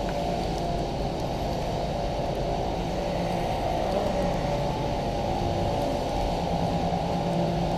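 Steady low rumble of vehicle road noise, even throughout with no sudden sounds.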